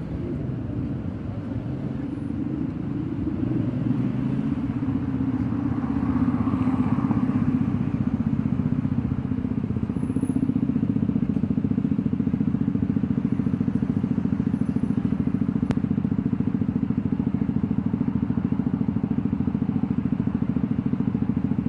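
An engine running steadily nearby, a low, evenly pulsing sound that builds over the first six seconds and then holds level.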